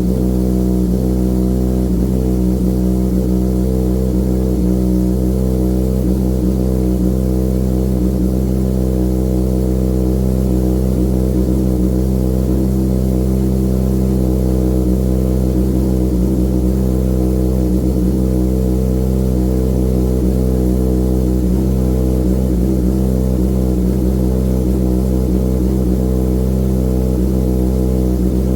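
Kawasaki ZX-6R 636's inline-four engine idling steadily on a cold start, warming up, heard through an aftermarket M4 GP19 exhaust.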